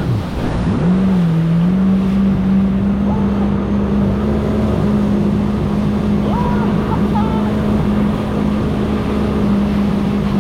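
Jet ski engine running at a steady pitch, dipping briefly about a second in before settling back, over a constant rushing noise.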